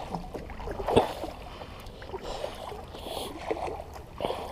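Water splashing and sloshing against a small plastic kayak's hull in irregular bursts, with a sharper splash about a second in, over a low wind rumble on the microphone.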